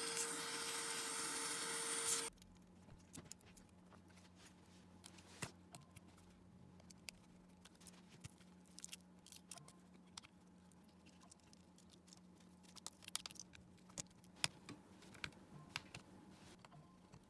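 A loud steady whirring noise for about two seconds that cuts off suddenly, then light scattered clicks and taps of small tools handling a smartphone as it is taken apart.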